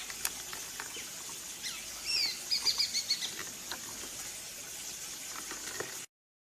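Small bird chirping a quick run of short, high notes, some sliding down in pitch, about two to three seconds in, over a steady outdoor hiss with scattered small ticks. The sound cuts off abruptly near the end.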